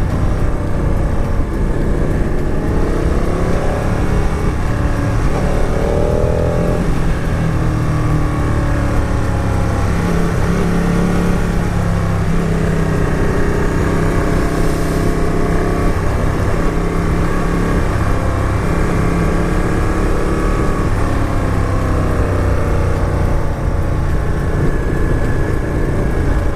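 Motorcycle engine running under way, its pitch rising and falling several times as the bike accelerates and changes gear, over a steady low rumble of wind and road noise.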